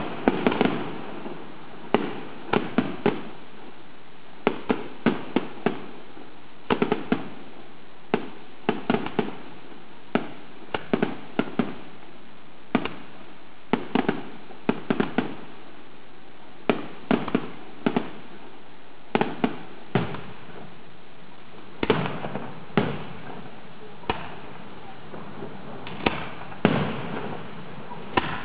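Aerial fireworks shells bursting in an irregular series of sharp bangs, often in quick clusters of two to four, with a continuous rumble of the display between them.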